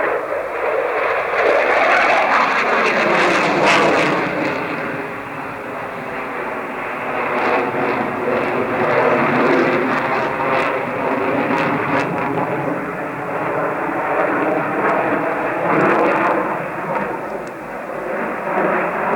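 Aircraft engine noise from an aeroplane flying past in an air-show display: the sound falls in pitch as it passes a few seconds in, then carries on as a steady drone with a layer of even tones.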